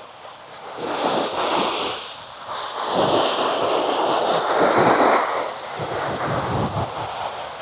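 Sea waves breaking and washing up the sand at the water's edge, the noise rising and falling in swells, with wind on the microphone.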